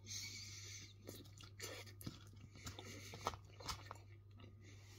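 A person chewing a forkful of loaded skin-on fries with chopped chicken, close to the microphone: faint wet mouth clicks and small crunches, irregular.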